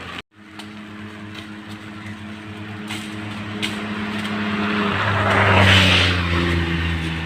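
A motor vehicle's engine running steadily, growing louder as it comes closer and loudest about six seconds in, with a shift in its pitch about five seconds in.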